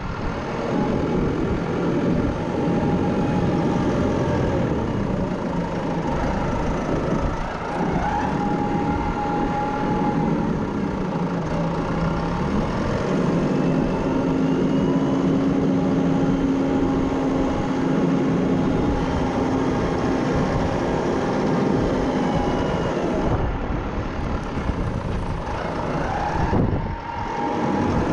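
Small tractor's engine running steadily, its revs rising and falling as it works, with a steady higher tone in the middle.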